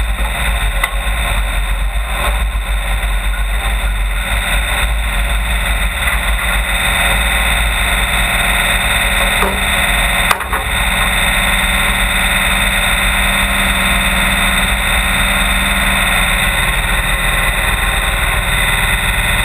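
Engine running steadily with a constant drone, with one brief click about ten seconds in.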